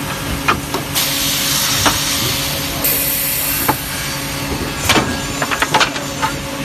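Multi-spindle wood drilling machine running with a steady hum. A hiss sets in about a second in and stops near the five-second mark, and short sharp knocks and clicks sound throughout, clustered near the end.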